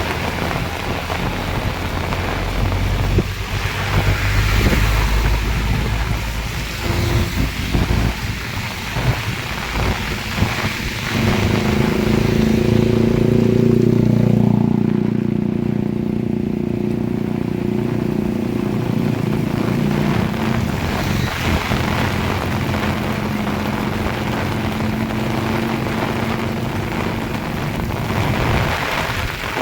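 Heavy rain pouring steadily. From about eleven seconds in, a passing motor vehicle's engine hum grows, is loudest around fourteen seconds, then fades away over several seconds.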